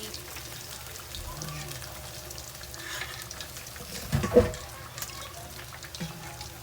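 Cooking oil sizzling in a frying pan with faint crackles. A single louder knock comes about four seconds in.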